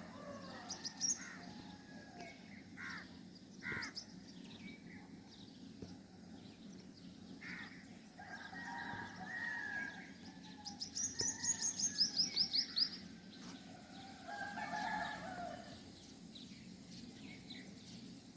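Several birds calling: scattered short chirps, a fast run of about a dozen high notes starting about ten and a half seconds in, and two longer, lower calls, one around the middle and one near the end.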